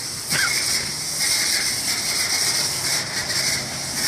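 Steady hiss of water spray at a car wash, with a brief sharp sound about a third of a second in.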